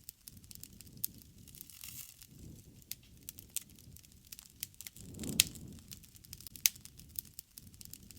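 Wood fire crackling: irregular sharp pops and snaps over a soft low flicker of flame, with the loudest pop a little after five seconds in.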